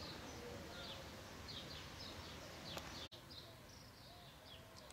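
Faint background birdsong: short high chirps repeating irregularly over a low steady hiss.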